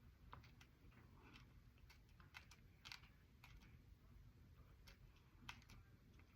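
Faint, irregular crunching clicks of a mouthful of baked clay pot and chalk being chewed, a few sharp crackles a second.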